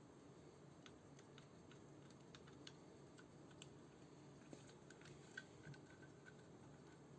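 Faint, irregular small clicks and taps over a low steady hum, near silence.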